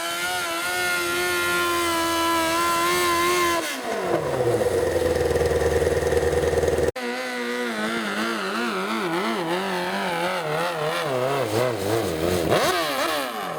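Garden tractor engine running at high revs, then dropping off about four seconds in. After an abrupt cut, the engine runs again with its pitch wavering up and down, then rising and falling near the end.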